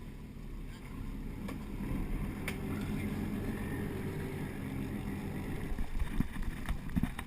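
Sportfishing boat's engine running with a steady low hum, with a few dull thumps near the end.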